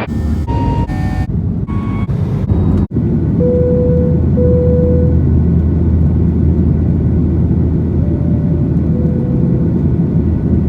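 A few short edited cuts in the first three seconds, then a steady loud low rumble of a moving vehicle heard from inside.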